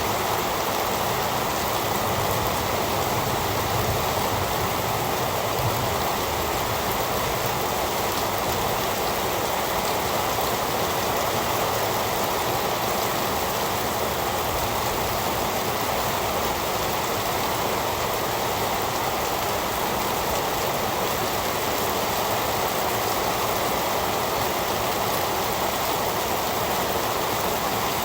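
Heavy rain falling steadily, an even hiss of rain with no breaks or single drops standing out.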